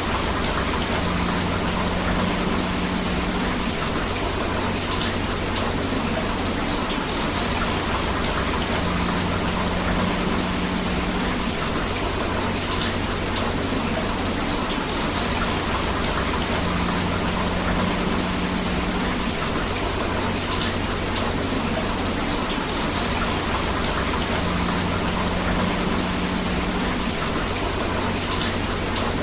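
Steady rain mixed with rushing river water, an even hiss with no pauses. A short low hum comes back about every eight seconds.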